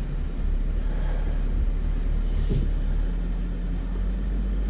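Car engine running steadily in low range with the differential lock engaged, a low rumble as the bogged-down car is driven to get moving. About three seconds in, a steady hum joins the rumble.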